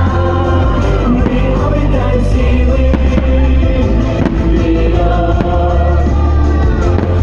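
Loud music with singing plays through a public address system, with firework bursts banging several times through it.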